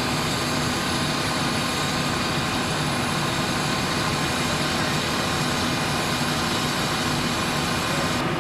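Steady engine drone with a faint hum, unbroken throughout.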